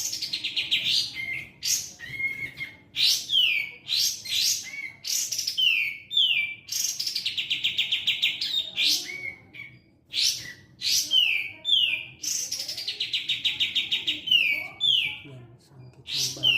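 A kapas tembak (katem) songbird in full song, singing loud repeated phrases of sharply falling whistled notes broken by fast rattling runs of rapid notes.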